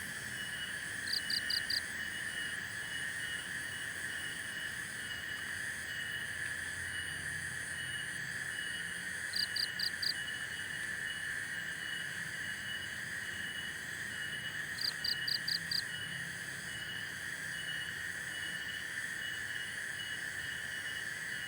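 Forest ambience of a steady, unbroken chorus of calling insects and frogs, with a pulsing call repeating evenly over it. Three times, about a second in, near the middle and again a few seconds later, a quick burst of four or five high chirps cuts in.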